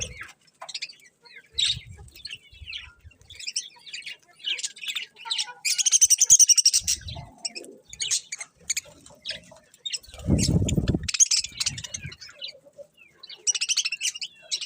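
Budgerigars chirping and warbling in a quick, busy stream of short high notes, thickest about six seconds in, with a low rumble lasting about a second some ten seconds in.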